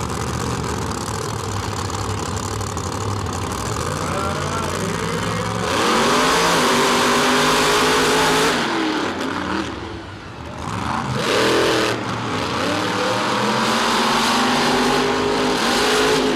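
Monster truck engine revving hard, its pitch climbing and falling repeatedly as the throttle is worked, easing off briefly about two-thirds of the way through before revving up again.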